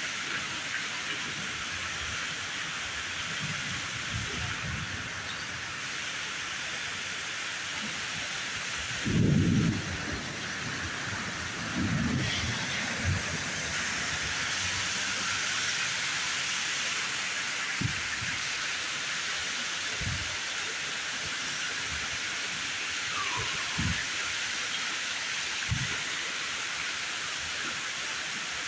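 Heavy rain from a severe thunderstorm falling steadily. A loud low rumble of thunder comes about nine seconds in and a second one about twelve seconds in. Several shorter low thumps follow later on.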